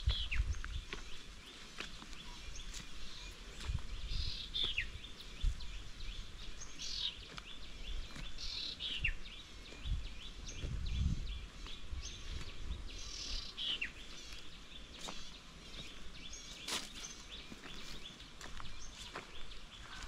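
A bird repeating a short descending call every few seconds, over steady outdoor ambience, with soft low thuds of footsteps on a dirt path.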